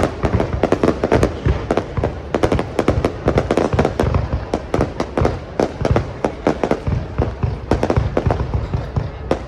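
Fireworks display: a rapid, unbroken barrage of bangs and crackles from aerial shells going off several times a second.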